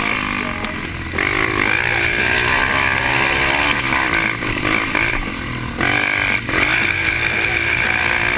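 Off-road trail motorcycle engine running hard, its pitch rising and falling as the throttle is worked, with short drops about a second in and near six seconds.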